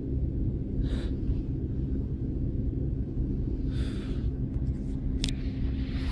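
A few short breathy gasps or sniffs, about one, four and six seconds in, over a steady low rumble, with a sharp click just after five seconds.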